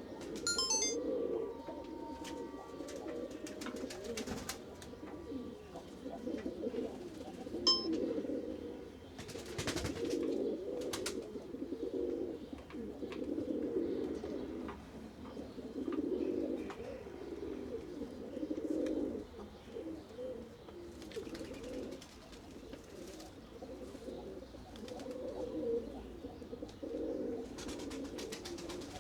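Several pigeons cooing continuously, a low throbbing chorus that swells and fades every second or two, with scattered sharp clicks and taps.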